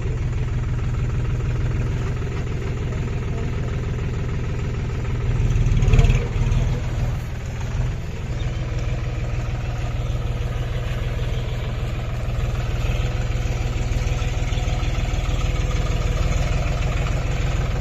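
John Deere 5050D tractor's three-cylinder diesel engine running steadily at low revs, briefly getting louder about six seconds in.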